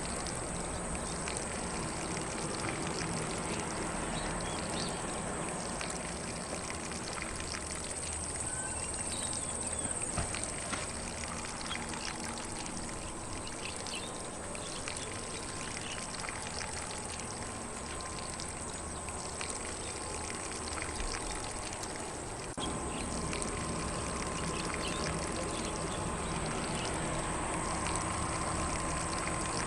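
Lawn sprinkler spraying water over grass: a steady hiss and patter, with faint bird chirps here and there.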